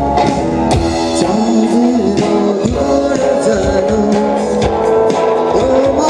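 A band playing a Bengali song live: a singer's voice sliding between held notes over guitar and regular drum and percussion hits.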